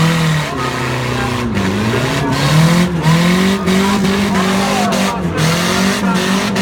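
Demolition derby car engines revving hard, their pitch rising and falling again and again as the cars accelerate and back up to ram each other.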